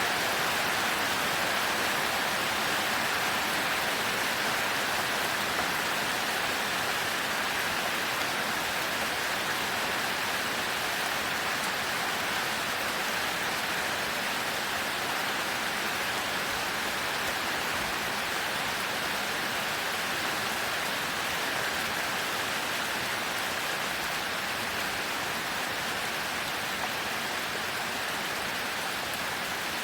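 Heavy rain falling steadily: an even, continuous hiss of many drops, with no thunder.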